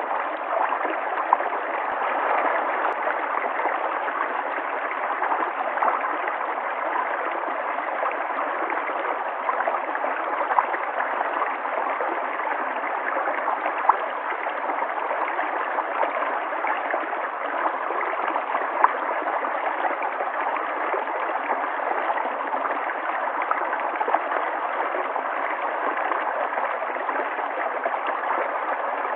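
River water flowing and gurgling steadily, with small splashes here and there.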